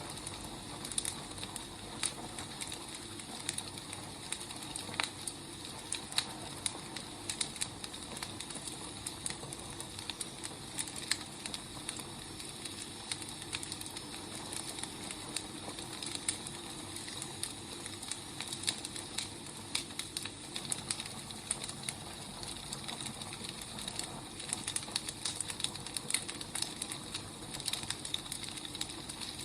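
Burning firewood crackling, with frequent irregular sharp pops and snaps over a soft steady hiss.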